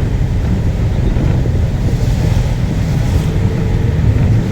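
Steady, heavy low rumble of wind buffeting the microphone, mixed with the noise of a moving vehicle.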